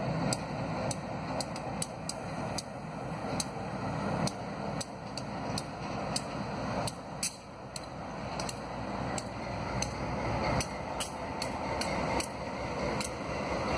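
Diesel locomotive leading a slow rail train as it draws close and passes, with the engine rumbling and a steady run of sharp clicks from the wheels over rail joints, roughly two a second, growing louder.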